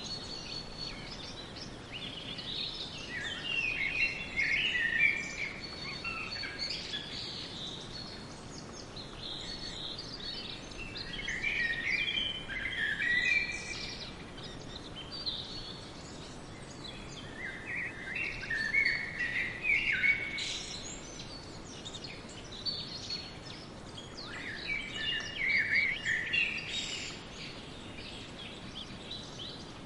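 Birdsong: four bouts of quick high chirping phrases, each a few seconds long, over steady background noise.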